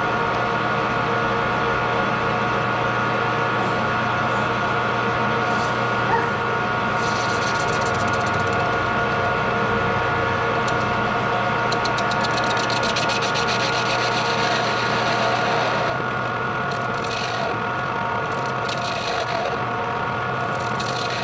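Metal lathe running in gear, its gear train whining steadily, with the hissing scrape of the cutting tool turning steel in the middle stretch; the level drops slightly about three quarters of the way in.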